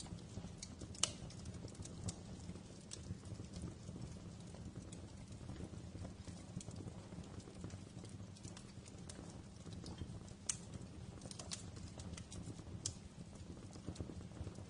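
Wood fire crackling: irregular sharp pops and snaps over a steady low rumble of burning, with the loudest pops about a second in and again about ten seconds in.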